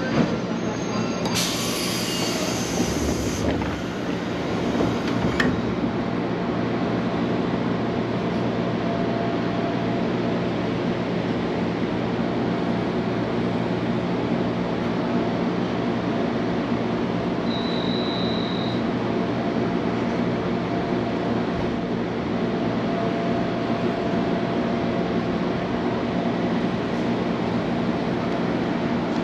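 Train running with a steady rolling noise and hum. A short hiss comes about a second and a half in, and a brief high beep about halfway through.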